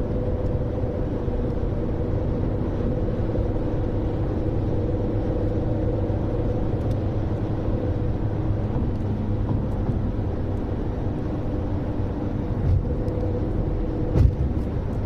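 Audi A3 8P TDI on the move, heard from inside: diesel engine and road noise with a steady whine in it, the strange noise the owner suspects comes from the gearbox. Two short knocks near the end.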